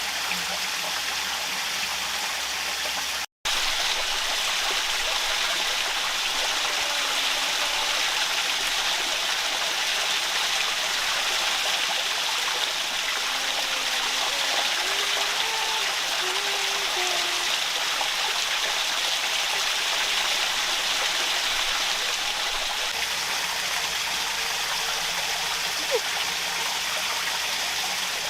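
Steady rushing of running water. It drops out for an instant about three seconds in, and a few faint short pitched notes sound over it in the middle.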